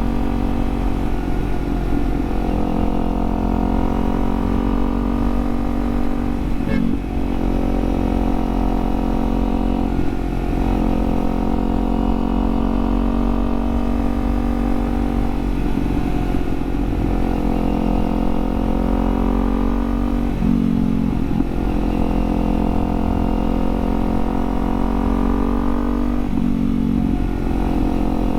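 Kawasaki Z400 parallel-twin engine through an aftermarket Leo Vince exhaust while riding. The engine note climbs steadily, then breaks and drops at several gear changes before climbing again.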